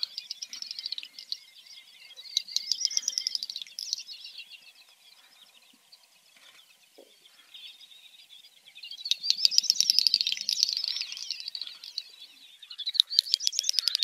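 Songbird singing in four bursts of rapid, high twittering phrases separated by short pauses, the last two bursts the loudest.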